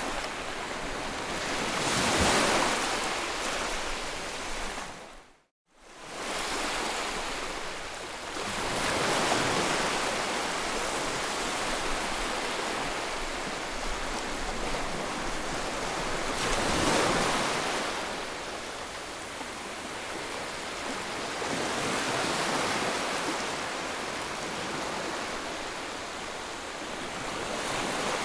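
Ocean surf: waves washing in as a steady hiss that swells and ebbs in slow surges several seconds apart. The sound dips briefly to silence about five seconds in, then returns.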